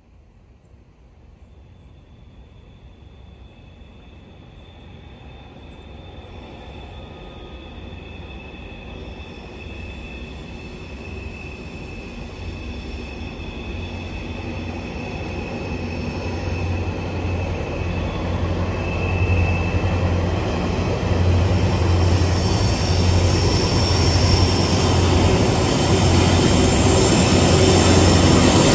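Freight train approaching, growing steadily louder throughout, with a deep steady note from the locomotive and a thin, high-pitched wheel squeal.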